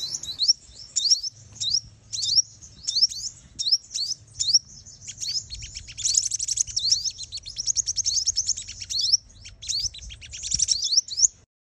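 Female sunbird lure call: a fast run of thin, high, upward-sweeping chirps and short trills, the kind played to provoke territorial male sunbirds. It cuts off abruptly just before the end.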